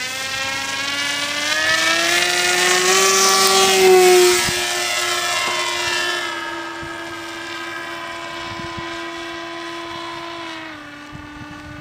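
Radio-controlled model airplane's motor and propeller droning in flight. It grows louder to a peak about four seconds in, then fades, with the pitch dropping slightly near the end.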